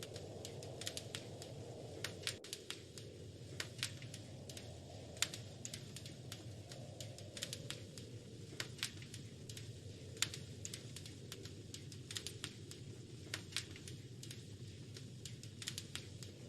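Wood fire crackling in a fireplace: irregular sharp snaps and pops, a few each second, over a low steady rush.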